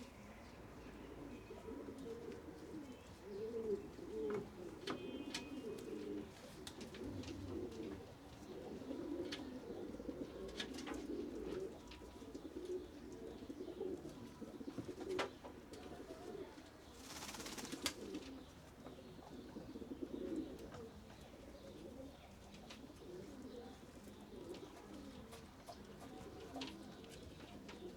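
Pigeons cooing, several low coos overlapping throughout, with scattered sharp clicks and a brief rustle about two-thirds of the way through.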